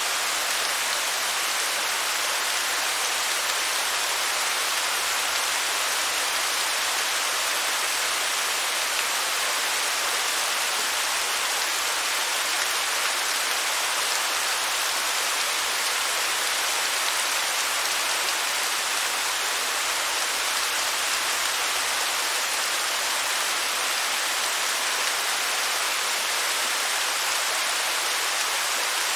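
Waterfall: a steady, even hiss of falling water that stays the same throughout, bright and high with little low rumble.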